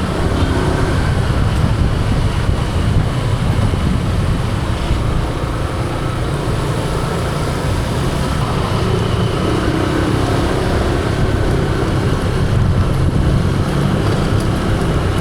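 Motor scooter riding along a road: a steady, loud mix of engine, tyre and road noise with a low rumble.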